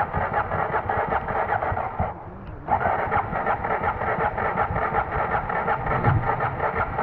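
Honda XR650L's single-cylinder engine turning over on its electric starter in quick, even pulses. The cranking stops for about half a second a little over two seconds in, then resumes.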